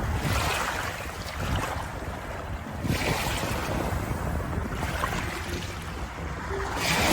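Ocean waves washing ashore: a steady rush of surf that swells as a wave breaks about three seconds in and again near the end.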